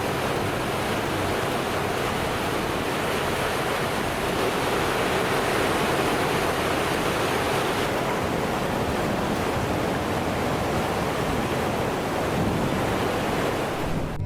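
Floodwater rushing across a roadway: a steady, loud rush of water with no letup.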